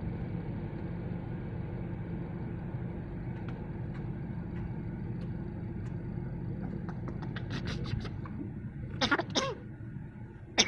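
A steady low engine-like hum that fades out about eight seconds in. A few clicks come near its end, then two short warbling calls that rise and fall in pitch.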